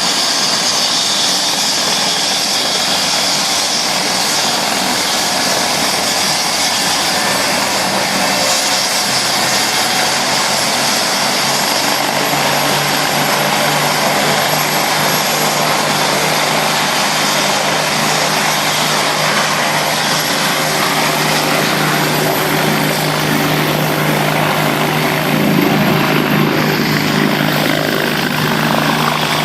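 Bell 429 twin-turbine helicopter running, a steady rush of engine and rotor noise with a thin high turbine whine that slowly rises in pitch. A low steady hum joins about twelve seconds in.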